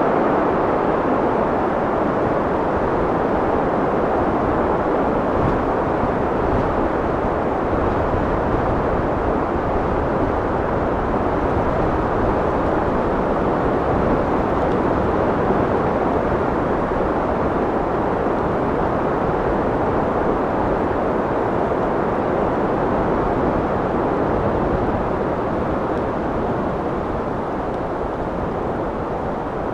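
Steady wind noise, a dense rushing with no gusts or breaks, easing slightly near the end.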